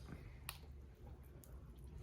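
Faint crackling clicks and squishes of boiled crawfish shells being cracked and peeled by hand, with one sharper crack about half a second in.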